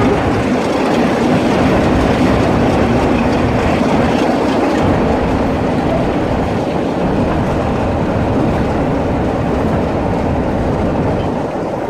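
Heritage train running along the track: a steady, loud noise of the train and its wheels on the rails, easing off slightly near the end.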